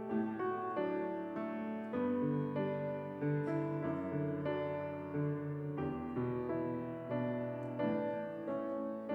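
Solo piano playing a slow piece in sustained chords, a new chord struck every second or two.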